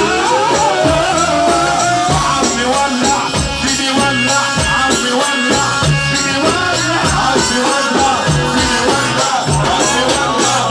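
Egyptian sha'bi wedding music played loud: a steady hand-drum and percussion beat with a melody line that slides up into a long held note in the first two seconds, then carries on in short phrases.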